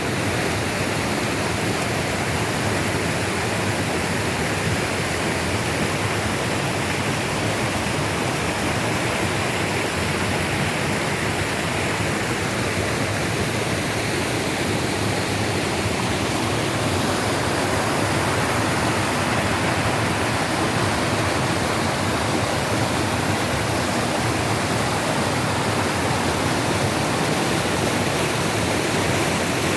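Rushing water, a steady, even noise that does not let up.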